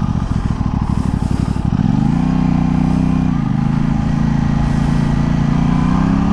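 Aprilia 660 parallel-twin motorcycle engine under way: a low pulsing at low revs, then about two seconds in the revs rise as it accelerates, dip briefly about a second and a half later, and climb slowly again.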